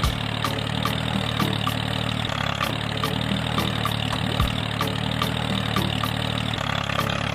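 Engine running steadily at idle, with a low, even hum that starts and cuts off abruptly. Background music with a regular beat plays over it.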